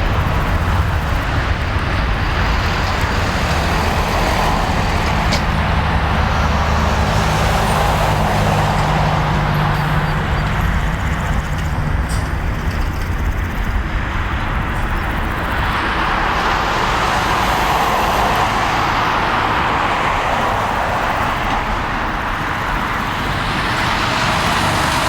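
Airbus A330-300 jet airliner taking off, its two Rolls-Royce Trent 772 turbofans at takeoff thrust: a loud, steady roar with a low hum in the first half, swelling again about two-thirds of the way through.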